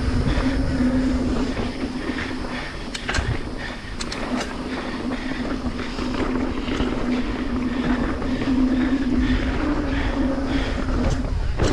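Aluminium full-suspension mountain bike rolling at speed along a dirt trail: a steady hum that wavers slightly with speed, over wind rumble on the microphone, with scattered clicks and knocks from the bike over rough ground.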